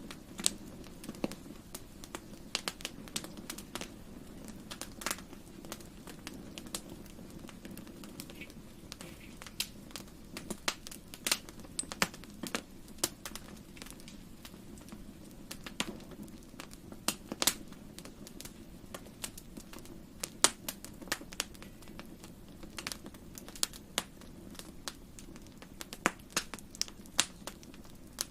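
Wood fire burning in a fireplace, crackling with irregular sharp pops and snaps over a low, steady rush of the flames.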